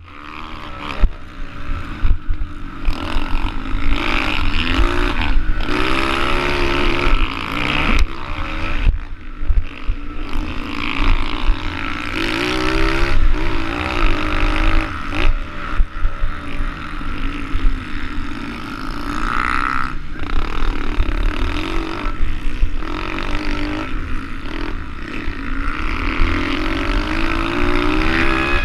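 SSR110 pit bike's 110 cc four-stroke single-cylinder engine revving up and falling back over and over as it is ridden hard through the race. A heavy rumble of wind on the microphone and sharp knocks from bumps run under it.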